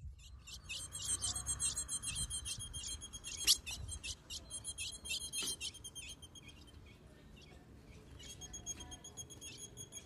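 Female ultramarine grosbeak (azulão) giving a rapid series of high, thin chips, several a second, the call of a female soliciting mating. A sharp click stands out about three and a half seconds in.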